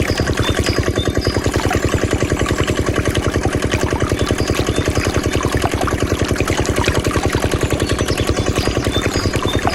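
Mini diesel engine driving a water pump, running steadily with an even, fast beat of about ten pulses a second.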